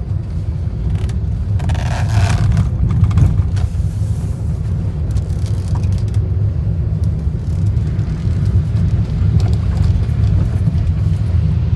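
Steady low road and engine rumble of a car heard from inside its cabin while driving, with a brief louder rush of noise about two seconds in.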